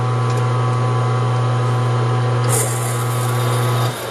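Metal lathe running with a steady motor hum while power-tapping a quarter-20 thread into brass, with a brief hiss about two and a half seconds in; the motor stops shortly before the end.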